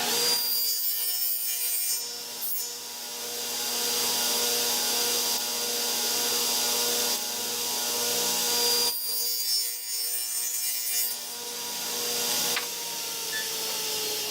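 Electric power saw running and cutting small pieces of wood, with the blade's noise rising and easing over several passes. About 12.5 s in the saw is switched off and its motor winds down with a falling tone.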